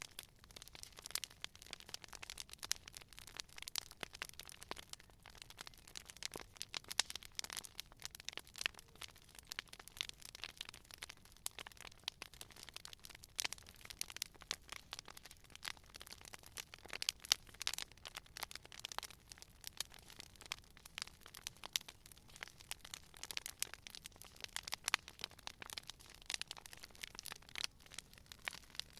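Campfire crackling: wood burning with a steady run of small, irregular pops and snaps over a soft hiss.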